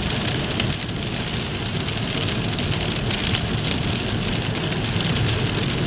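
Steady rain falling, heard as an even hiss dotted with many small drop hits.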